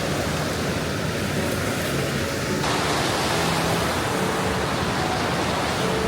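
Steady rushing noise of Pacific Ocean surf, changing abruptly in tone about two and a half seconds in.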